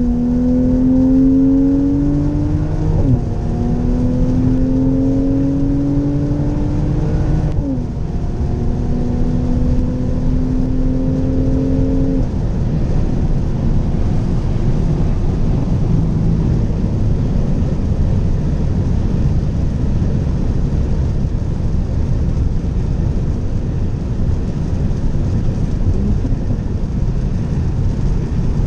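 Mercedes-AMG SLC 43's 3.0 twin-turbo V6 under hard acceleration, its note rising steadily and dropping back at two upshifts. About twelve seconds in the engine note fades out, leaving a steady roar of wind and road noise at high speed.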